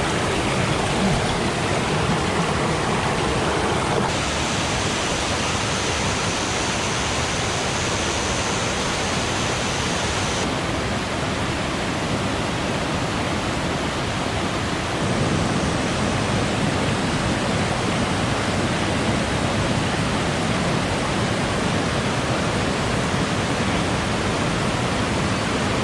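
Mountain stream water rushing steadily, a constant loud hiss of flowing water whose tone shifts a few times, brighter for a stretch after about four seconds.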